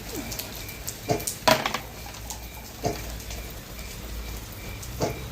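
Scattered raindrops falling, each landing as a separate sharp plink on a hard surface, a few seconds apart.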